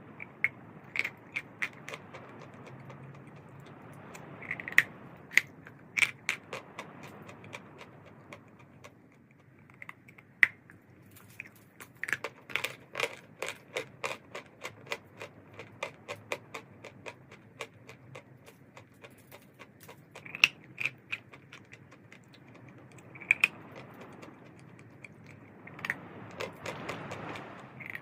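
Chalk crunching as it is bitten and chewed: runs of sharp, crisp clicks with short pauses in between.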